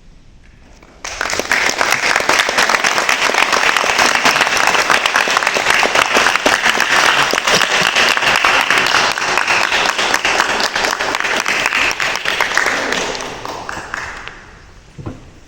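Audience applauding, starting suddenly about a second in, holding steady and dying away near the end.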